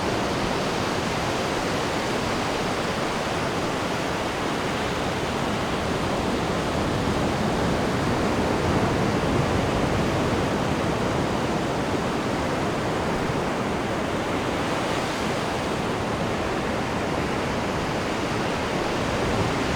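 Ocean waves breaking and washing on the shore at the foot of the cliffs: a continuous rushing surf that swells slightly about halfway through.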